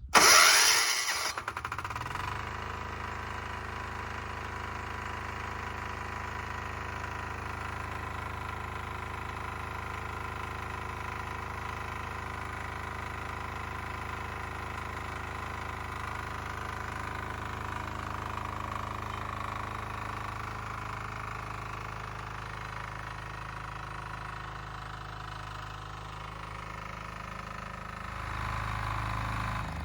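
Weima single-cylinder diesel walk-behind tractor engine starting: a loud burst as it catches, then running steadily at idle, with the revs rising near the end.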